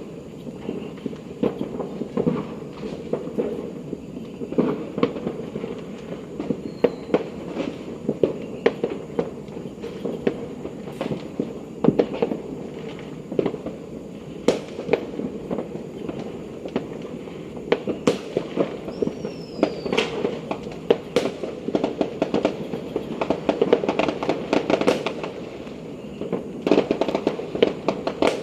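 Fireworks and firecrackers going off without pause: a dense run of pops and bangs, with a couple of short whistles, one of them falling in pitch past the middle.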